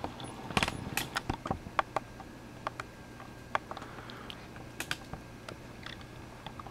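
Hunter Coastal Breeze ceiling fan running with a low, steady hum. Over it come scattered, irregular light clicks, a dozen or more, unevenly spaced.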